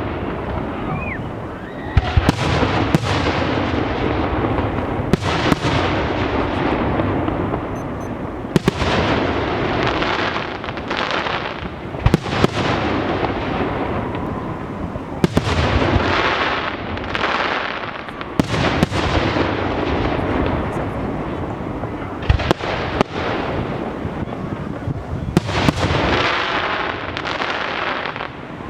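Fireworks display going off without a pause: sharp bangs of bursting shells every one to three seconds over a continuous crackle and hiss.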